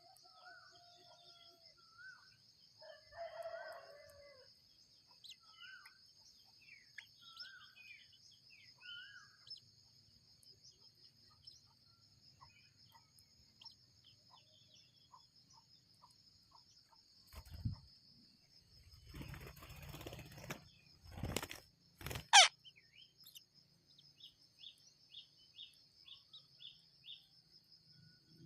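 Short bird chirps and calls scattered over a steady, high insect buzz. Past the middle come a few seconds of louder, harsher sounds, ending in one sharp, loud call that sweeps steeply in pitch. A run of quick, evenly repeated chirps follows near the end.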